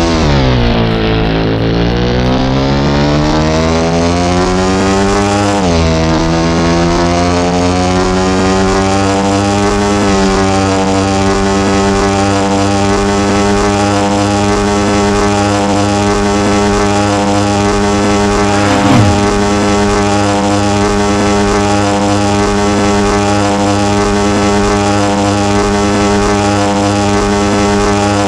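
Motorcycle engine running at speed. Its pitch dips and climbs through gear changes near the start and again about six seconds in, then holds a steady cruising drone. A brief sound falls sharply in pitch about nineteen seconds in.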